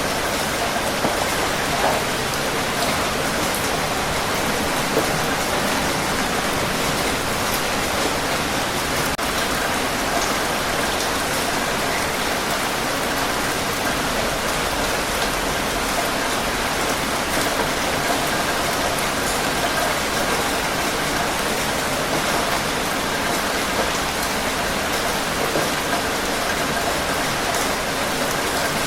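Steady rain falling on surfaces, a continuous even hiss with scattered individual drop patters.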